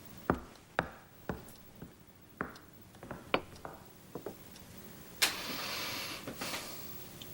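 Dishes and cutlery knocking and clinking at a dinner table, a string of sharp taps, some with a short ring. About five seconds in there is a louder scraping rustle of about a second and a half.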